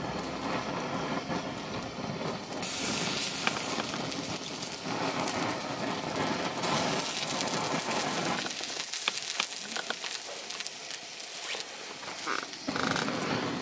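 Wood campfire crackling with a steady hiss, with many small sharp pops. The hiss swells twice.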